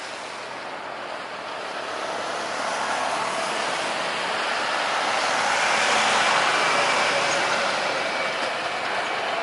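Jet airliner engines at takeoff thrust passing by: a rushing noise that builds to its loudest about six seconds in and then eases a little, with a faint high whine near the peak.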